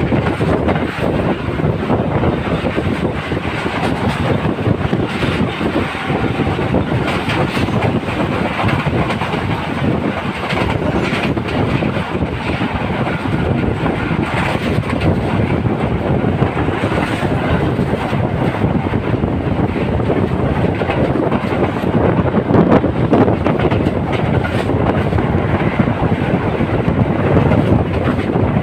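Moving train heard from on board: a loud, steady rumble of wheels running on the rails.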